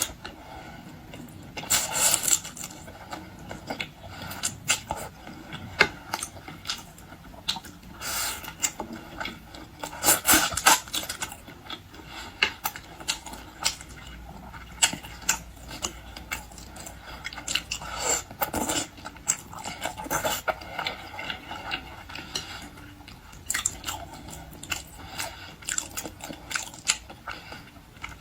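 A person eating sushi close to the microphone: wet chewing and lip smacking in dense, irregular clicks, with a few louder bursts of sound.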